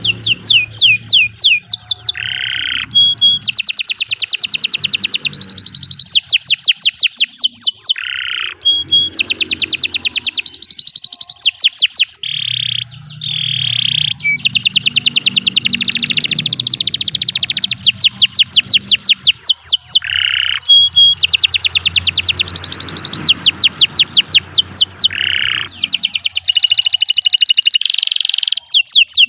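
Domestic canary singing a long, vigorous song: phrases of rapid high trills, about ten quick pitch sweeps a second, each phrase broken by a short pause before the next.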